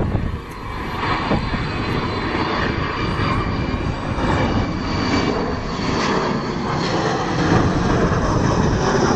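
Avro Vulcan XH558's four Olympus turbojets rumbling in a low flypast, with faint thin high tones over the roar, growing gradually louder.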